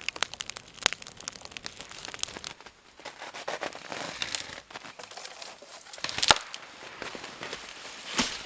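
Dry wood crackling and snapping in irregular sharp clicks, with a few louder pops about a second in, after six seconds and near the end.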